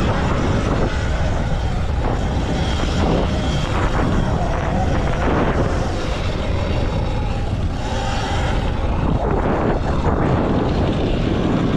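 Full-electric motocross bike with a Stage 2 M1 motor ridden hard on a dirt track: the motor's whine rises and falls with the throttle over heavy wind rumble on the microphone.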